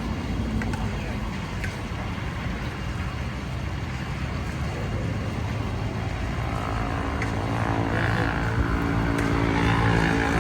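A motor vehicle's engine running close by, growing louder over the second half, over a steady low rumble of background noise.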